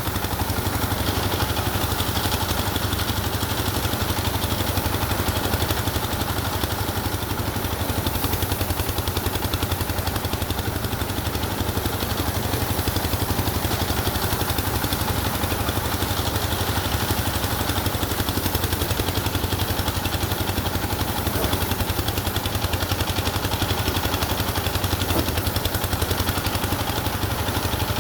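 An engine running steadily at constant speed, with no change in pitch or load.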